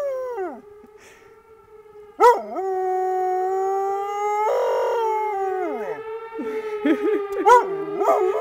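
Dog howling along with a tornado siren, which holds a steady tone underneath; the owner believes the siren is malfunctioning. The howl falls away in the first half-second, starts again sharply about two seconds in and is held for a few seconds, then breaks into short wavering howls and yips near the end.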